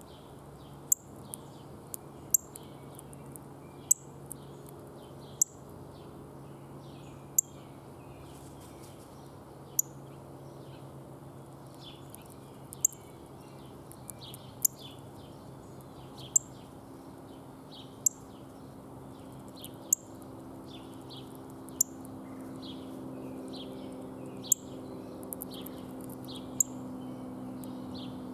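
Songbirds chirping: loud, sharp, high chips repeated every one to two seconds, with fainter chirps between them, over a steady low hum.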